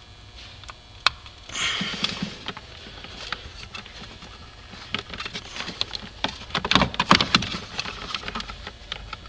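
Plastic clicks, taps and rustling of wiring as cable connectors are handled and plugged into a Sirius satellite radio decoder box, with a burst of louder clicks about two-thirds of the way through.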